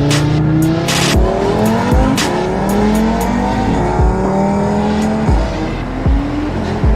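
Audi RS3's inline five-cylinder engine through a titanium valved cat-back exhaust, its pitch climbing again and again and breaking off each time. Several sharp cracks come from the exhaust at the breaks.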